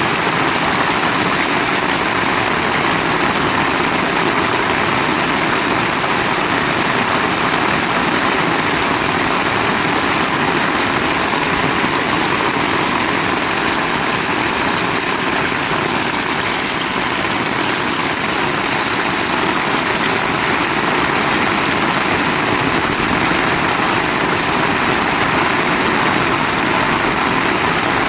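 Heavy rain pouring down steadily: a loud, dense, even hiss with no let-up.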